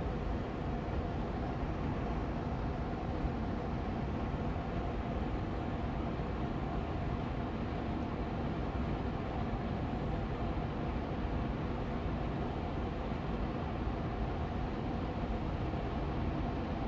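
Austin Air Allergy Machine air purifier fan running steadily on medium speed: an even, low airflow hum with a faint steady tone in it.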